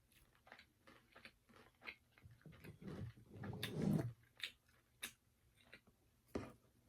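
Close-up chewing and biting of crispy fried chicken: a run of soft crunches and wet mouth clicks, louder and denser about three to four seconds in, with one sharp crunch near the end.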